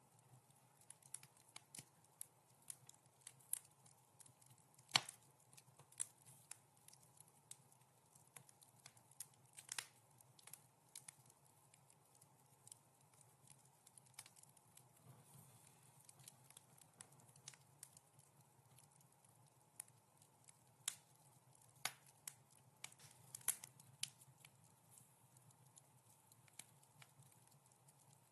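Wood fire crackling in a fireplace: irregular sharp snaps and pops, several a second, with a few louder pops standing out.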